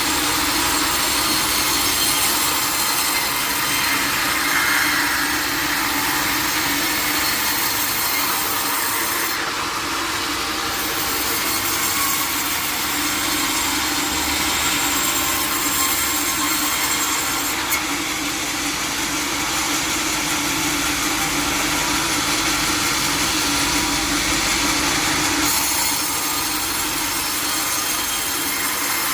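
Sawmill saw cutting through teak wood, running steadily through the cut after building up in the first second.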